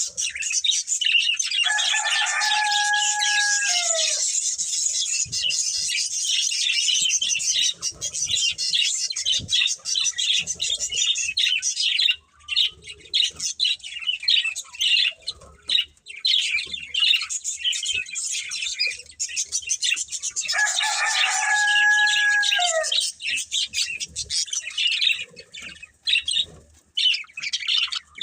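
Budgerigars chirping and chattering continuously in fast, high warbles. Twice, a longer and lower held call of about two seconds cuts through, falling in pitch at its end.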